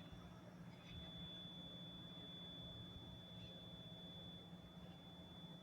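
Near silence, with a faint steady high-pitched tone and a faint low hum.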